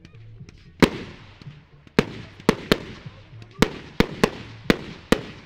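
Aerial firework shells bursting overhead: about nine sharp bangs at irregular intervals, each followed by a fading echo, the first and loudest about a second in.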